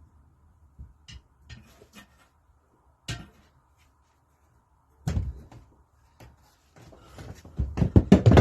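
Metal clinks and knocks of tools and parts being handled while dismantling a Lister D engine: scattered light clicks, a sharp clatter about five seconds in, then a loud quick run of knocks near the end.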